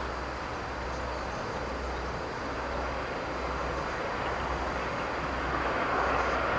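Diesel-hauled train running, a steady rumble and rushing noise that grows louder toward the end.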